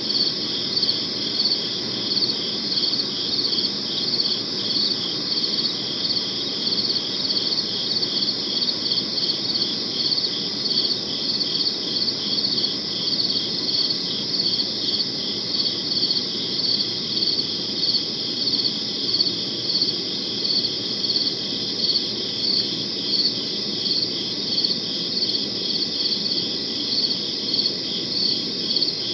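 Crickets chirping in a steady, regular rhythm of high-pitched pulses, over a soft low hiss.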